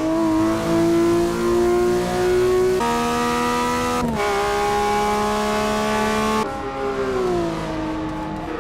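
Supercar engine at full throttle, its note climbing slowly through the high gears. A gear change drops the pitch about four seconds in, and the note eases off and falls near the end.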